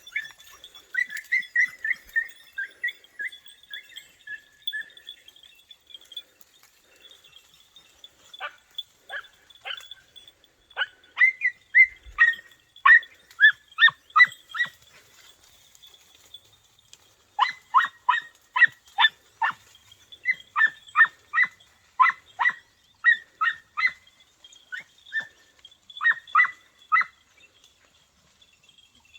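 Podenco hounds and puppies giving tongue on a rabbit's scent: runs of short, high yelps, each falling in pitch, several a second, with a pause of a few seconds midway. This trail-barking signals the pack is working the scent.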